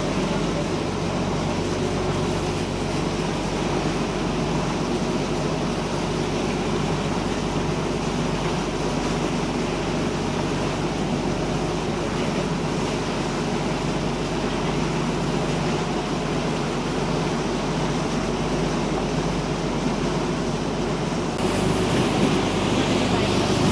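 A boat's engine running steadily under way, with a low hum, mixed with wind and water noise; it gets louder near the end.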